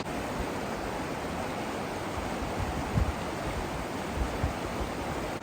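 River running high with snowmelt, a steady rushing of water, with a few low bumps about halfway through.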